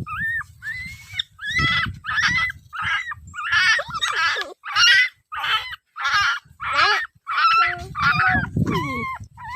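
An animal giving a rapid series of short, harsh, hoarse calls, about one and a half a second.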